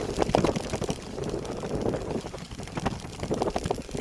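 A bike ridden over a rough forest trail: tyre noise and irregular knocks and rattles as it goes over bumps, with wind buffeting the microphone.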